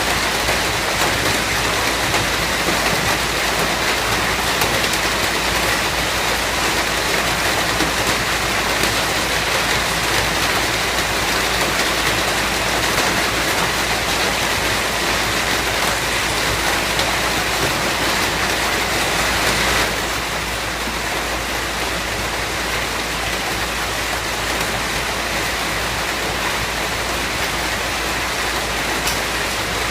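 Steady rain falling, an even hiss of countless drops. It turns slightly quieter about twenty seconds in.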